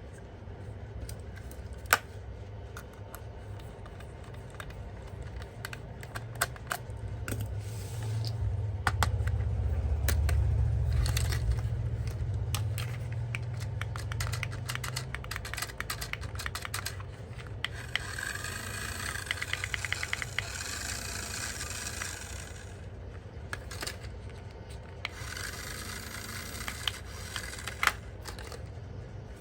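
Hands handling a toy and its packaging: scattered sharp clicks and plastic scraping and rubbing, with two longer rasping stretches in the second half.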